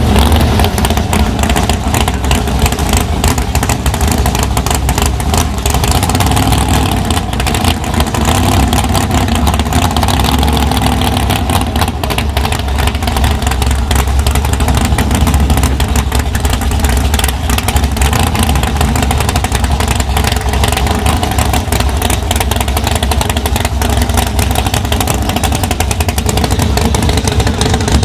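A loud, high-powered drag-racing engine running steadily with an unchanging pitch and a dense, rapid crackle.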